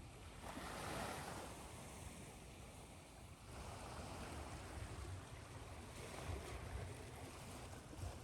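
Ocean waves washing in as a faint, steady surf, swelling about a second in and again a few seconds later, with white noise mixed in.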